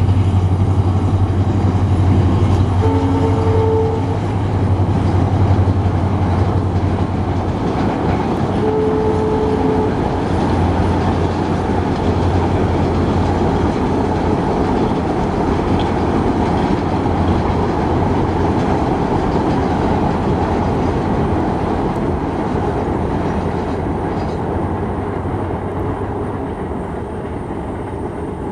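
Diesel locomotive hauling a passenger express: a steady loud rumble of the engine and coaches. Two short horn blasts sound about three and nine seconds in, and the rumble fades a little near the end as the train draws away.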